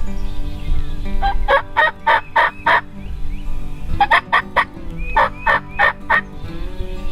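A wild turkey gobbler gobbling twice, each gobble a rapid rattling run of notes lasting one and a half to two seconds, with the second starting about four seconds in.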